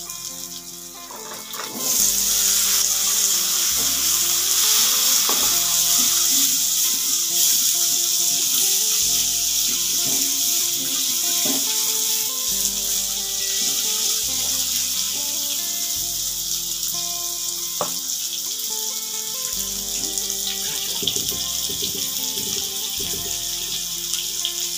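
Pumpkin cubes frying in hot oil in a wok: the sizzle jumps loud about two seconds in as they go in, then keeps on steadily while they are stirred with a spatula, with a few light knocks. Background music plays underneath.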